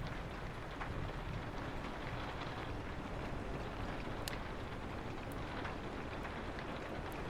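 Steady rain with a low wind rumble beneath it, and a few sharp pops from a crackling wood fire, two of them around the middle.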